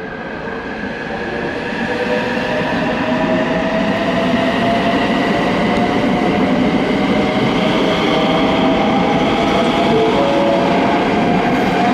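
Electric train running through the station, its motors whining in several tones that rise slowly in pitch over running noise. It grows louder over the first few seconds, then holds steady.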